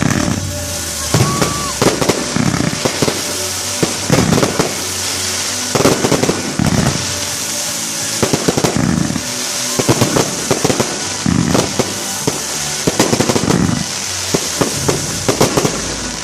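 Aerial fireworks display: clusters of rapid bangs and crackling bursts about every one to two seconds, over a steady crackling hiss.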